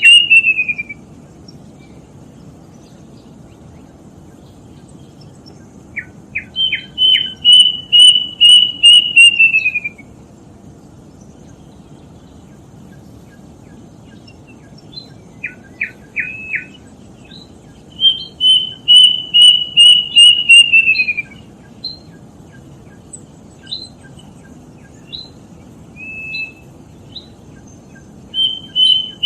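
Plaintive cuckoo (kedasih) singing: repeated bouts of a quick run of clear whistled notes that slides downward at the end, each bout about three seconds long. Scattered short sharp notes fall between the bouts, over a steady low hiss.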